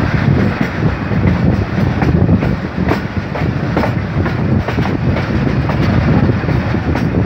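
Passenger train coach rolling out at low speed, heard from its open door: a steady rumble of wheels on track with irregular sharp clicks as the wheels cross rail joints and points.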